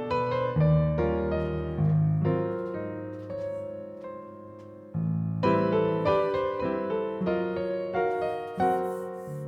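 Background music: gentle solo piano playing a slow melody with chords, pausing briefly about halfway through before picking up again.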